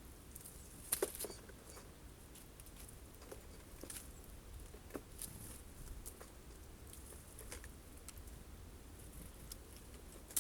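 Birds at a feeder pecking and tapping at sunflower seeds: irregular light clicks and taps, with a couple of louder knocks about a second in.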